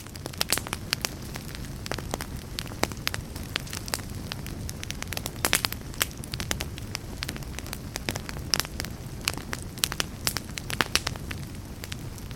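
Log fire crackling in a fireplace: many irregular sharp pops and snaps over a steady low rumble of burning wood.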